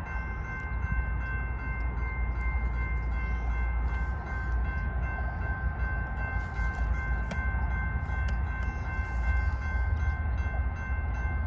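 Train running, a steady low rumble with a faint, steady high whine over it.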